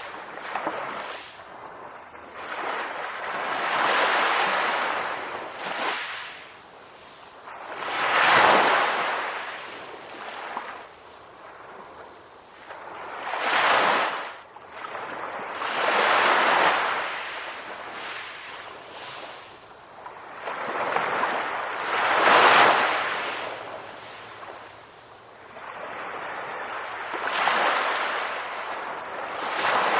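Ocean waves breaking on a shore and washing back, a fresh surge of surf every four to six seconds.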